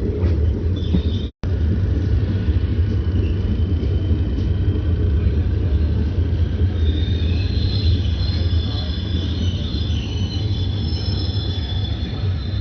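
Express train in motion: a steady heavy rumble, with high, thin metallic wheel squeal joining in from about halfway through.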